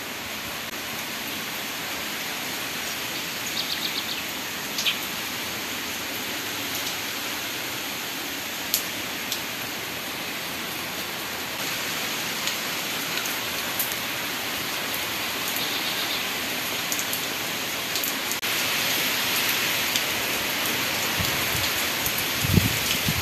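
Steady heavy rain falling on a clay-tile roof and trees, with scattered close drips, growing a little heavier about two-thirds of the way through. Near the end a low rumble of thunder comes in.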